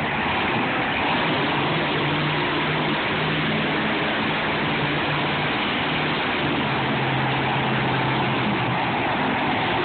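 Monster truck engine running steadily, its pitch dropping a little about two thirds of the way through, over a constant wash of noise.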